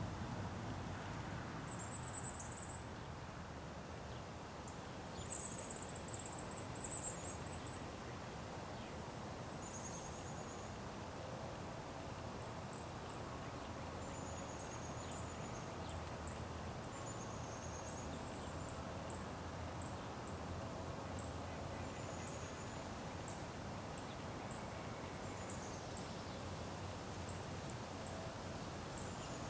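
Small birds giving short, very high, thin calls every second or two, with one longer warbling call about five seconds in, over a steady low background rumble.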